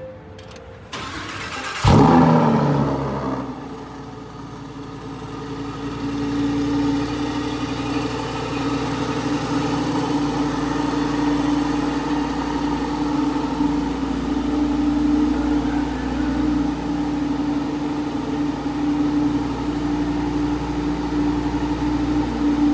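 Lamborghini Spyder's engine started with the push button: it catches about two seconds in with a loud rev flare that quickly falls away, then settles into a steady fast cold-start idle.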